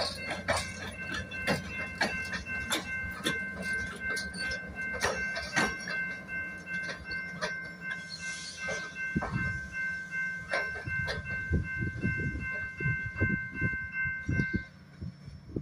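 A Canadian Pacific track evaluation train's cars roll by with their wheels clicking over the rail joints. A level-crossing bell rings steadily over the wheels and stops near the end, as the level drops.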